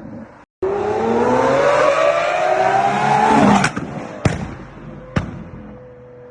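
Tuned car engine accelerating hard, its pitch climbing for about three seconds, then lifting off with three sharp exhaust bangs and settling into a quieter steady drone.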